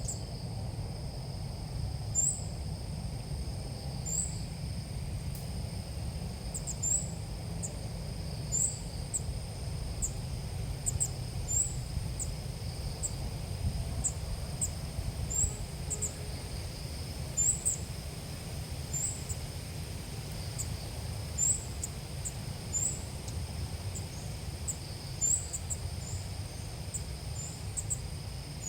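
Small bird calls, the Vietnamese 'ốc mít' call used as a lure for bird trapping: many short, high, upward-flicking chirps repeated irregularly, over a steady high insect-like whine.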